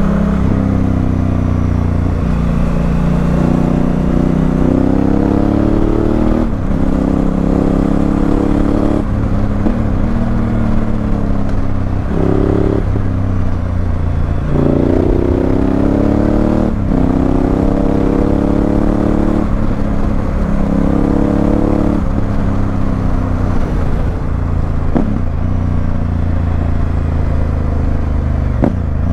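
Honda Africa Twin CRF1000L's parallel-twin engine through an aftermarket Remus exhaust, heard while riding. The engine note repeatedly rises under throttle and then drops sharply at gear changes or throttle lifts, about seven times.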